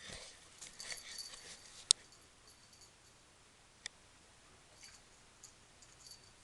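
Cats pawing and nosing at an object, making light rustling and small clicks, with a sharp click about two seconds in and another about four seconds in.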